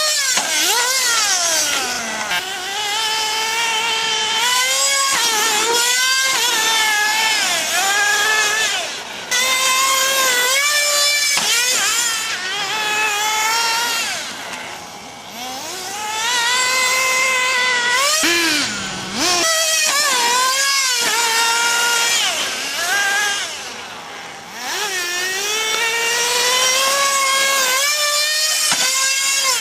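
Small nitro engines of radio-controlled cars running at high revs, their high-pitched whine rising and falling again and again as the throttle is worked. The sound drops away briefly several times, around 9, 15, 19 and 24 seconds in.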